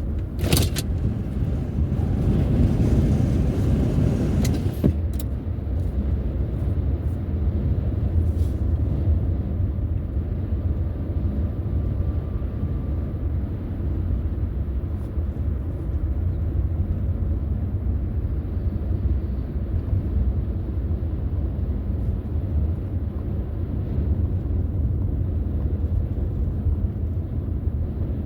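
Car driving on the road: a steady low rumble of tyres and engine, with a louder rushing noise over the first five seconds or so.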